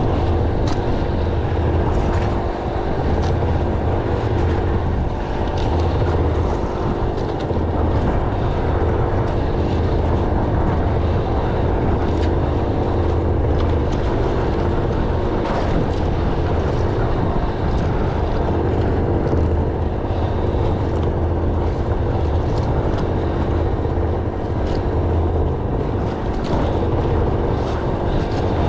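An engine running steadily with an even, low drone and a steady hum above it, with a few faint ticks scattered through.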